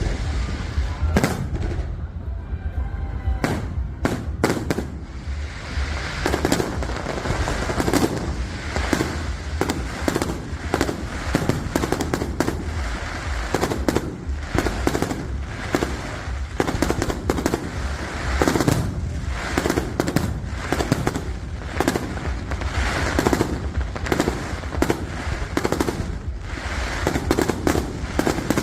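Fireworks going off in a rapid, continuous barrage of bangs and crackles, many shots a second with no pause.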